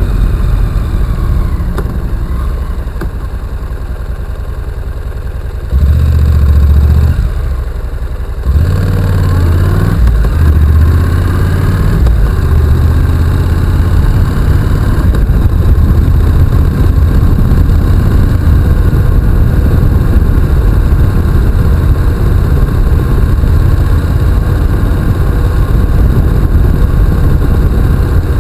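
Honda NC750X's 745 cc parallel-twin engine heard on board while riding. It is quieter at first, gets louder about six seconds in, dips briefly, then rises in pitch from about eight seconds in as it accelerates, and runs steadily after that.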